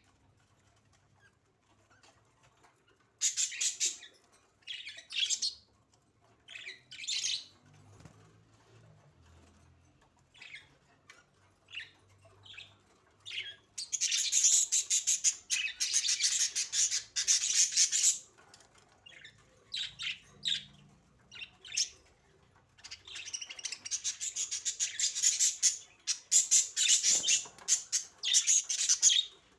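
Budgerigars chirping in short bursts, then breaking into long runs of dense, rapid chatter about halfway through and again near the end.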